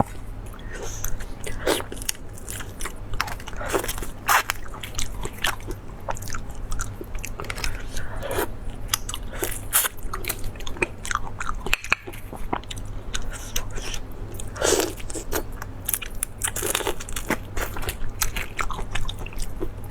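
A person biting and chewing crunchy food close to the microphone, with irregular sharp crunches throughout over a steady low hum.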